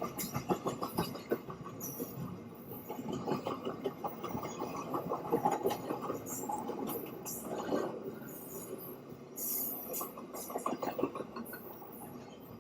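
Long intermodal container freight train rolling past, its wheels clattering and clicking over the rails in a steady stream of short sharp knocks.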